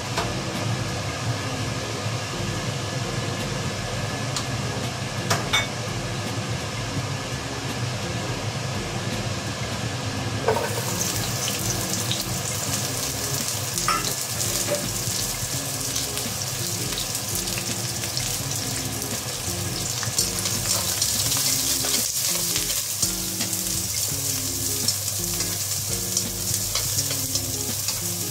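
Sliced red onion, garlic and red chilli frying in a non-stick wok: the sizzle starts suddenly about ten seconds in as they hit the hot pan and grows stronger later, with chopsticks stirring near the end. Background music plays throughout.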